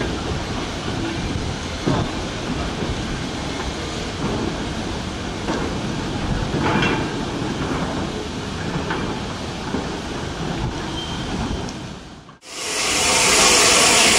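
Goods wagons and a brake van rolling slowly past on the rails, a steady rumble with a few scattered wheel clicks over rail joints. About twelve seconds in, the sound cuts to a loud, steady hiss of escaping steam close beside a steam locomotive.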